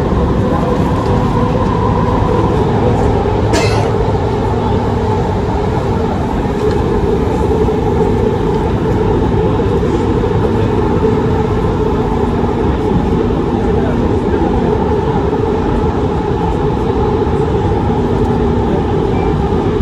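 Running noise of a Doha Metro train heard from inside the carriage: a steady rumble with a low hum, and one sharp click about three and a half seconds in.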